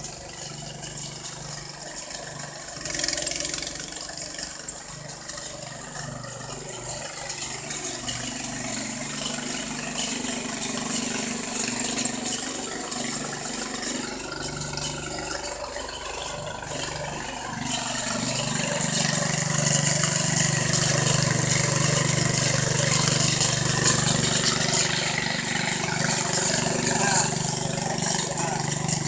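Engine of a drilling machine running steadily, growing louder about eighteen seconds in.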